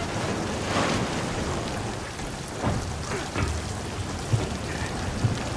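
Heavy storm with steady pouring rain, and a few dull thuds scattered through it.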